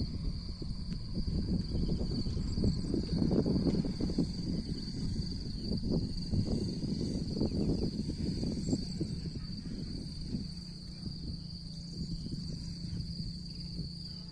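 Insects giving a steady, unbroken high trill, over uneven low rumbling noise.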